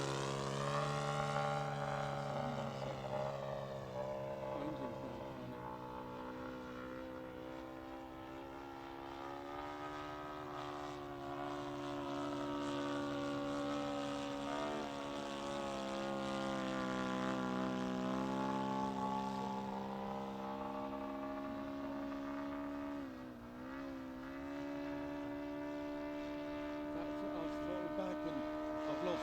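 Radio-controlled scale model Hawker Hurricane's engine and propeller running steadily in flight. Its drone wavers gently in pitch as the model passes, with a brief drop and recovery in pitch about three-quarters of the way through.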